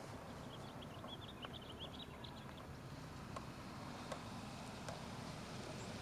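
A bird twittering in a quick run of short high chirps during the first half, over a faint steady low rumble of wind.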